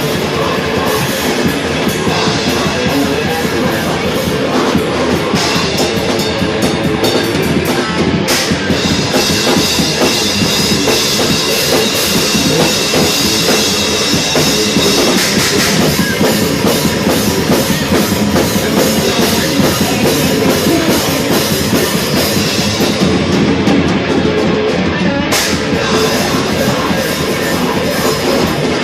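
Grindcore band playing live at full volume: distorted electric guitars over very fast, dense drumming on a drum kit.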